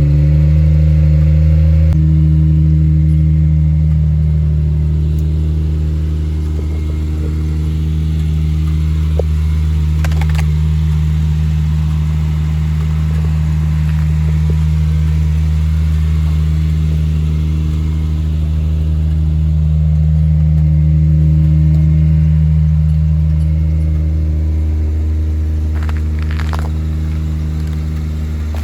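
Subaru Outback 3.6R's flat-six engine and exhaust running at steady revs, a low, even drone whose pitch holds constant while the level swells gently. A couple of light clicks come about ten seconds in and again near the end.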